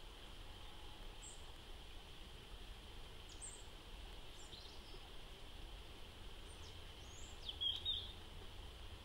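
Steady faint hiss with a few short, high bird chirps scattered through it; the loudest pair of chirps comes near the end.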